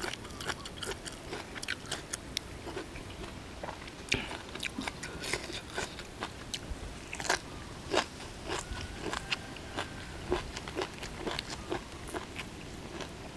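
Close-up chewing of a mouthful of spicy apple snail salad with raw greens: many sharp, irregular crunches and bites, the snail meat crunchy.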